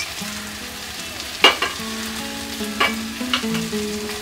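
Vegetables and fried small fish sizzling in a metal kadai, with a metal spatula knocking sharply against the pan three times, about a second and a half in, near three seconds and just after.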